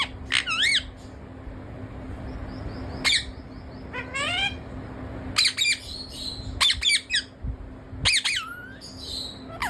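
Pet parrot squawking in a string of short, harsh calls with swooping pitch, including a quick run of short rising notes about four seconds in.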